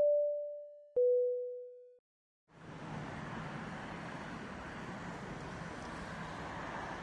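A two-note descending chime, a higher ding then a lower dong, each note fading over about a second. Then, after a brief gap, a steady rushing noise of strong wind starts and holds.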